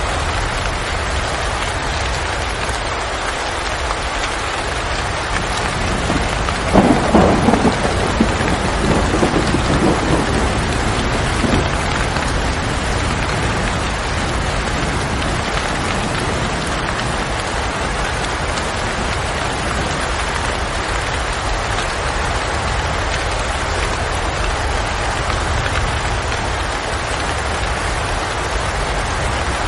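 Steady rain, with a rumble of thunder starting about seven seconds in and fading over a few seconds.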